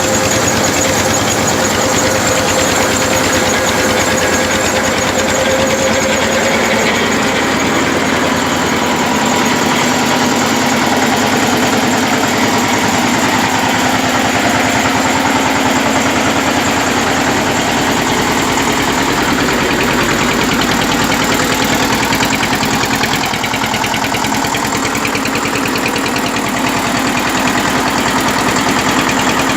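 Tractor's diesel engine running steadily while driving an atta chakki (flour mill), a dense continuous machine noise with a humming tone that settles lower in pitch several seconds in.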